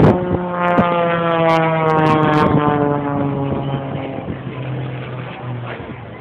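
An aircraft flying past, its engine note a stack of tones that slides steadily down in pitch and fades as it goes by.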